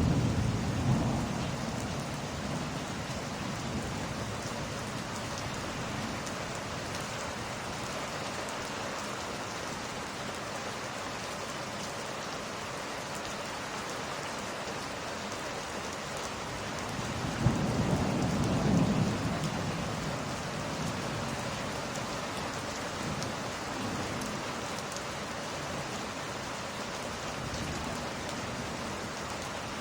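Steady heavy rain, with two low rolls of thunder: one right at the start and another a little past halfway.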